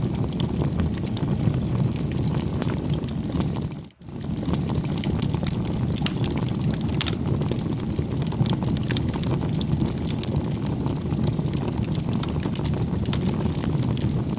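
Campfire burning: a steady low rush of flames with frequent small crackles and pops. The sound drops out for a moment about four seconds in.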